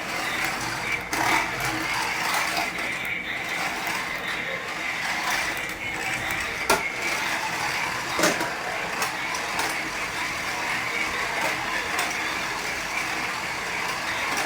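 A small geared toy motor whirring steadily, with two sharp clicks partway through.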